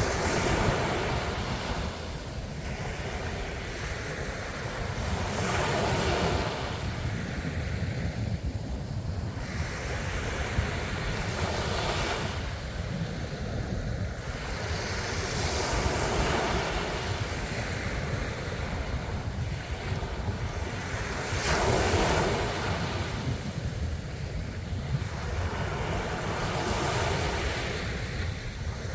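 Ocean waves breaking and washing on the shore, surging every few seconds, over a steady low rumble of surf. Wind buffets the microphone throughout.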